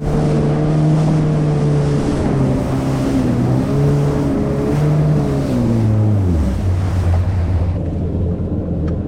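2018 Yamaha FX HO jet ski's four-stroke engine running under way, its pitch wavering with the throttle, then falling about six seconds in and settling lower as the throttle is eased. Wind rushes over the microphone along with the hiss of water.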